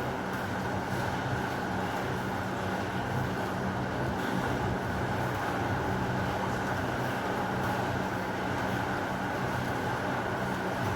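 Heavy rain falling steadily, an even rushing noise with no thunderclap.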